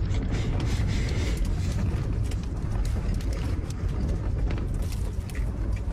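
Strong gusty wind blowing across the microphone, a steady low rumble with a hiss above it.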